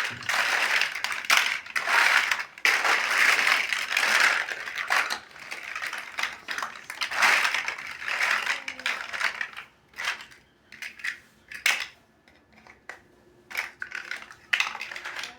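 Plastic building bricks rattling and clicking as hands sort through them, dense for the first half and thinning to scattered single clicks near the end.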